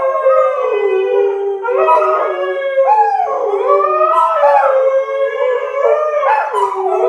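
Several dogs howling together, their long, wavering howls overlapping at different pitches.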